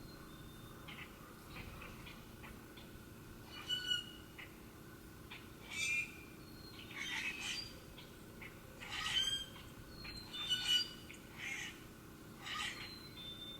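Wild birds calling: short, harsh squawk-like calls repeated at irregular intervals, some in quick pairs, over a faint steady hum.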